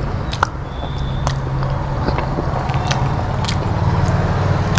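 Close-miked mouth sounds of a person chewing a mouthful of rice and vegetables, with scattered wet clicks, then biting into a raw green chili near the end, over a steady low hum.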